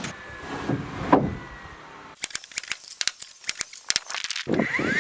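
Carpentry handling noises: a few dull knocks in the first second or so, then a quick run of small sharp clicks and rattles, with louder knocking starting near the end.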